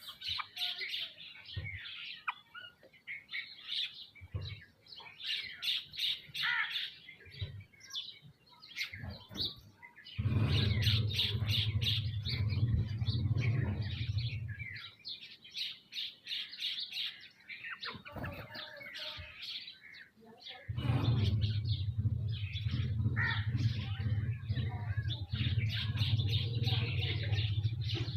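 A flock of sparrows and mynas chirping continuously while feeding, many quick overlapping chirps. A steady low hum comes in about ten seconds in, stops around fifteen seconds, and returns about twenty-one seconds in, louder than the birds.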